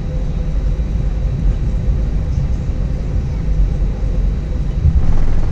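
Cabin noise inside an Airbus A320-232 during takeoff: its IAE V2500 engines at high thrust under a deep, steady rumble, with a faint steady hum.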